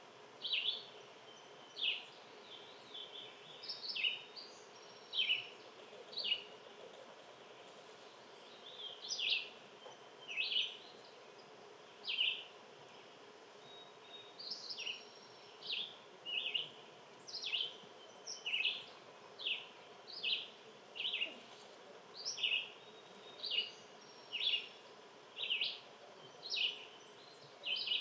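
A bird chirping over and over, short high notes about once a second, with a faint steady background hum beneath.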